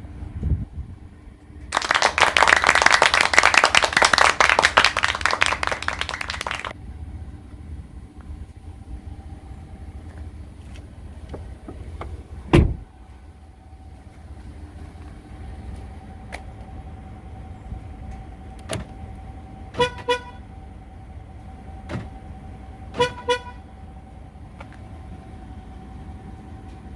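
A vehicle horn gives two quick double chirps about three seconds apart, like lock-confirmation toots. Earlier there is a loud rattling noise lasting about five seconds, then a single sharp thump.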